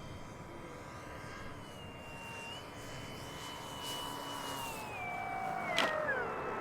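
Electric motor and propeller of a radio-controlled P-47 model plane in flight: a steady whine that steps down in pitch a few times, then falls away over the last second and a half, with one sharp click near the end.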